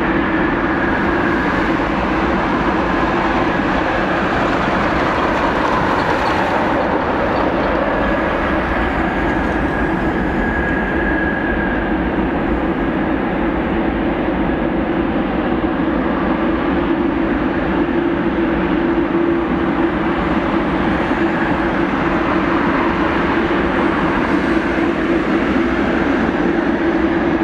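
Jet airliner engines running at takeoff power: a loud, steady rumble with a constant low hum.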